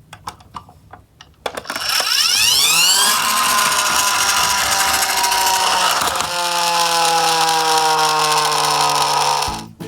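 A toy garbage truck whirring loudly. Its pitch rises steeply for about a second and a half, holds steady, then falls slowly from about six seconds in, and the sound cuts off just before the end.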